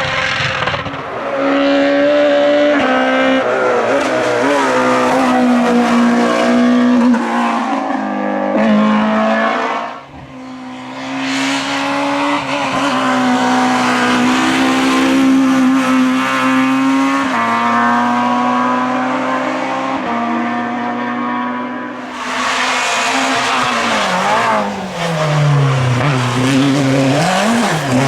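Naturally aspirated Groupe F2000 rally car engines at full attack, the engine note climbing and stepping through gear changes. There is an abrupt break about a third of the way in, then another car. Near the end the revs fall and rise sharply under braking and downshifts.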